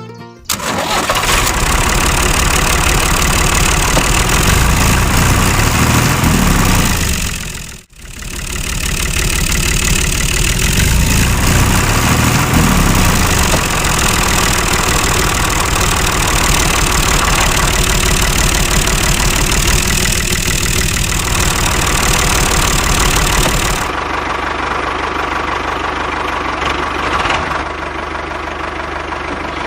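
Small engine running loudly and steadily, broken by a brief drop-out about eight seconds in; near the end the sound turns duller.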